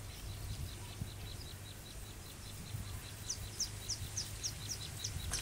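Birds calling: a fast, even series of short high chirps, joined about three seconds in by a louder run of short falling high notes, about three a second, over a low steady rumble.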